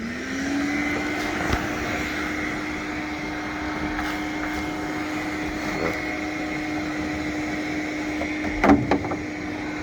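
A shop vac's motor spinning up as it is switched on, its whine rising in pitch over the first half second, then running steadily with the rush of suction air. Brief knocks come about a second and a half in and near the end.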